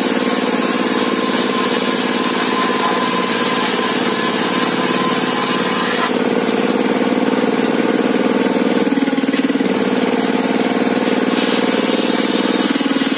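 Engine running steadily, its note shifting slightly about six and again about nine seconds in.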